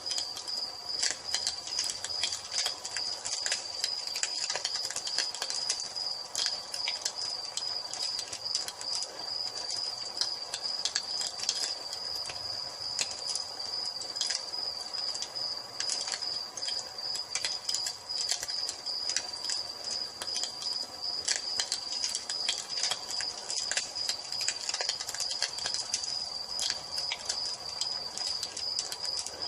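Wood fire crackling with irregular sharp pops, over a steady, high-pitched cricket trill.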